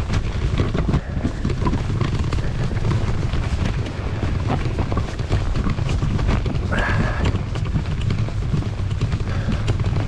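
Bicycle ridden over a bumpy, snow-covered path: a steady low rumble with constant rattles and knocks as the bike and its mounted camera jolt over the snow. A brief squeak comes about seven seconds in.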